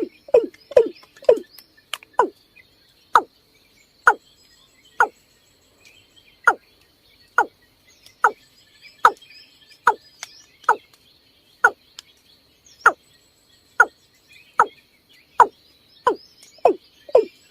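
Water cock calling: a long series of short low notes, quick at first, slowing to about one a second, then quickening again near the end.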